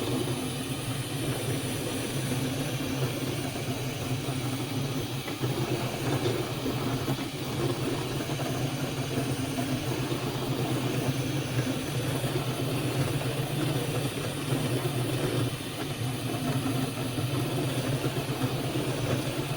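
Flashforge Adventurer 5M 3D printer running: a steady mechanical hum from its cooling fans and motors.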